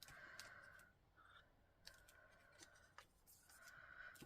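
Faint rubbing of card stock being slid and pressed into line on the card, in three short stretches, with a few light clicks as the paper is handled.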